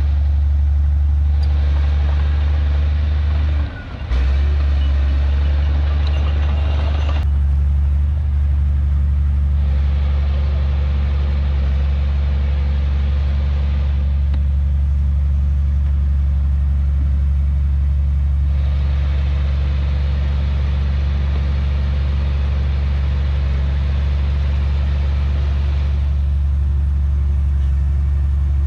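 Heavy diesel engine of earthmoving machinery running steadily under work, with a strong low hum and a brief break about four seconds in.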